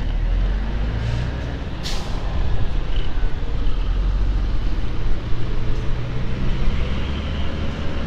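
Small 110 cc motorcycle engine running, with a steady low rumble and a short hiss about two seconds in.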